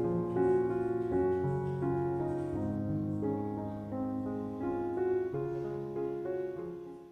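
Soft background piano music, slow sustained notes, fading out near the end.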